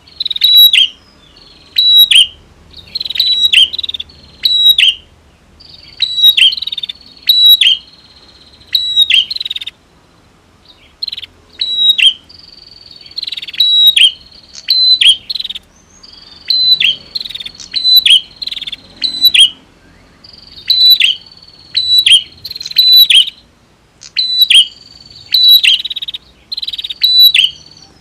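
Prinias (prenjak) calling: loud, sharp, high chirps repeated in quick clusters, with a brief lull about a third of the way through.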